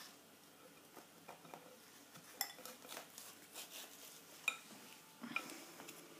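Light clinks and knocks of a kitchen bowl and utensils being handled, the two sharpest about two and a half and four and a half seconds in, each with a short ring.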